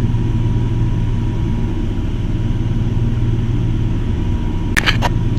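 Steady low machine hum with a faint steady high tone above it, and a few quick clicks near the end.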